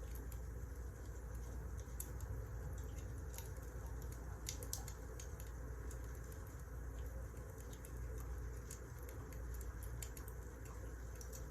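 Wood fire crackling: irregular small pops and snaps scattered over a steady low rumble.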